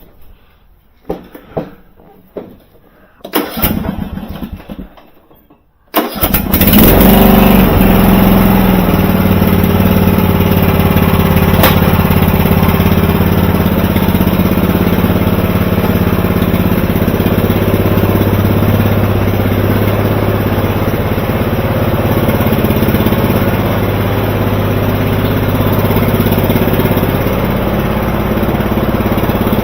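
Vintage Murray 11/36 riding mower: a few knocks and rustles, then the engine starts suddenly about six seconds in and keeps running steadily, its fuel solenoid freshly cleaned.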